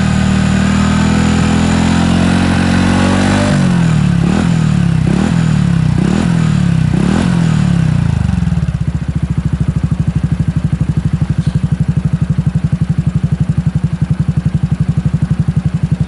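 Honda Super Cub 110's single-cylinder four-stroke engine through a BEAMS Power Classic Cabton full exhaust. It is held at raised revs for a few seconds, blipped about four times, then drops to a steady idle with an even exhaust pulse.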